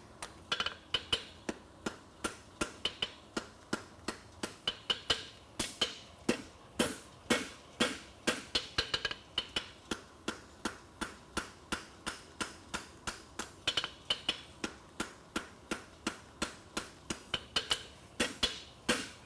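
Farrier's hammer striking a hot steel horseshoe bar on an anvil in a steady run of about three blows a second, some of them ringing, as he forges the heel of a French hind shoe.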